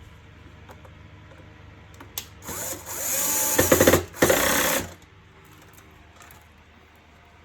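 Power screwdriver driving screws, in two short runs: a longer one of about a second and a half, then a brief one about four seconds in.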